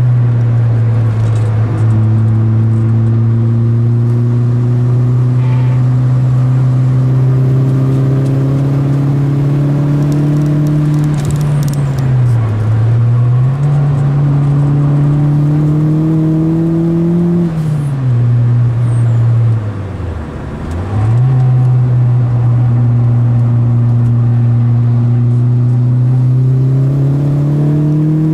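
VW Golf MkII Turbo's inline-four engine heard from inside the cabin under load on track, its pitch slowly climbing as it pulls. The revs dip briefly about twelve seconds in, then fall away further and go quieter for a couple of seconds around twenty seconds in before picking up again.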